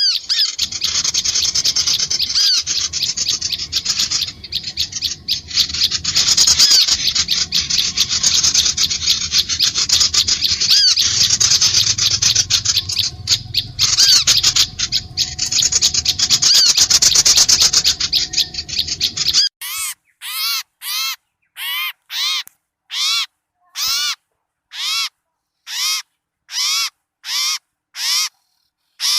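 Bird-lure recording of small birds: a dense, noisy chorus of many birds chattering and chirping rapidly. About twenty seconds in it cuts suddenly to one harsh call repeated a little under twice a second.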